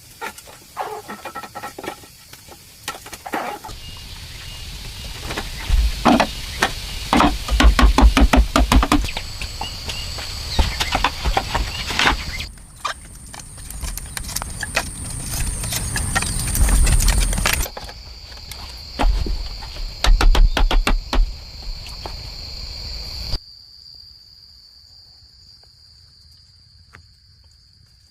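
Insects trilling steadily, with many sharp knocks and low thumps from hand work. The background changes abruptly several times, as at cuts, and the knocking stops for the last few seconds, leaving only the insects.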